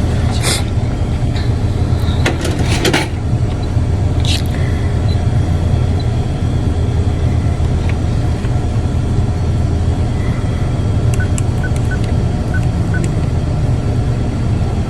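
Steady low rumble of a motor vehicle engine running, with a few sharp clicks in the first few seconds and a row of faint short beeps about eleven to thirteen seconds in.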